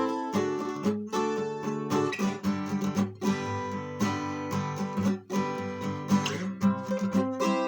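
Soviet 12-string acoustic guitar from the Lunacharsky factory, strummed. Ringing chords are restruck about once a second, and the chord changes as it plays.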